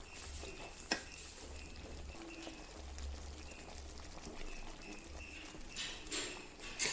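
Spoon stirring a chicken curry in a cooking pot, knocking against the pot about a second in and again near the end.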